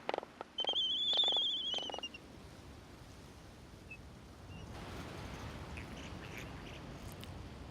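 A bird calls once, a pitched call of about a second and a half that rises slightly and then falls away. From about five seconds in, a steady outdoor hiss of wind or surf takes over.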